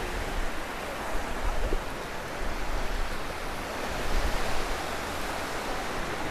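Gulf of Mexico surf washing onto a sandy beach: a steady wash of water noise with gentle swells and a low rumble underneath.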